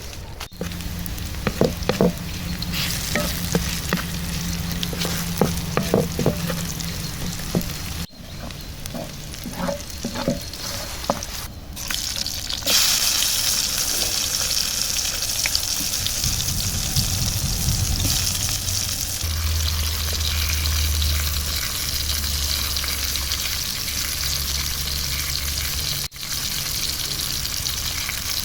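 Vegetables frying and sizzling in a pan over a campfire, with scattered knocks and clinks of a utensil stirring them in the first half. After an abrupt change about 13 seconds in, a steadier, hissier sizzle.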